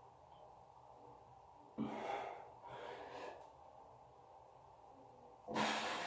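A person breathing hard: a few forceful, noisy exhales. There are two at about two and three seconds in, and a louder one near the end.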